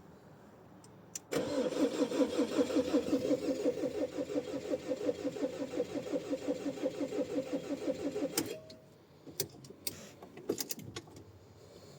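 Ford Ranger's starter cranking the engine in −10° cold: a fast, even churning that starts about a second in and runs for about seven seconds, then stops without the engine catching. A few faint clicks follow.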